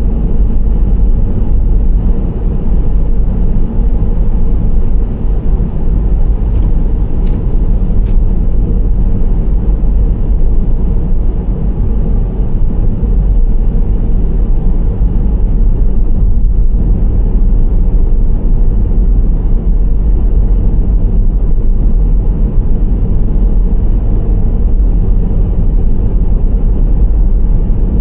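Nissan Serena C25 minivan driving at a steady pace: a continuous deep rumble of engine and road noise with tyre hiss. Two brief sharp clicks come about seven and eight seconds in.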